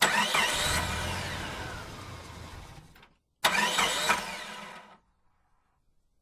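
Car engine revving hard twice, each rev starting loud and falling in pitch as it dies away; the second is shorter.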